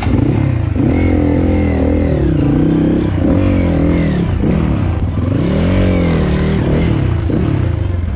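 Dirt bike engine revved up and dropped back over and over, roughly once a second, as the throttle is worked in low gear to crawl over rocks.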